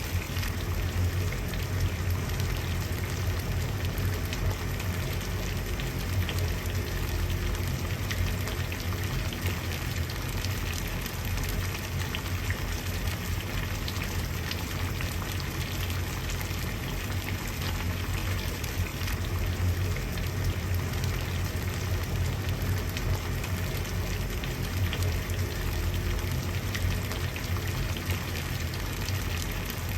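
Water at a rolling boil, bubbling steadily with a dense fine crackle of popping bubbles over a low rumble.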